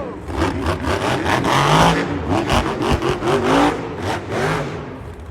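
Monster truck's supercharged methanol V8 revving hard in repeated bursts, pitch rising and falling, with short sharp knocks mixed in.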